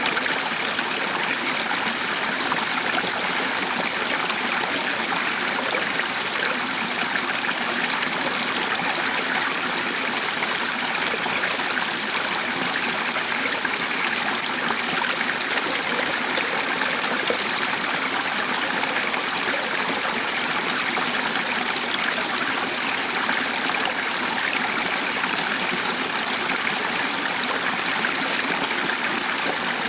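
Running water with a steady, unchanging rush.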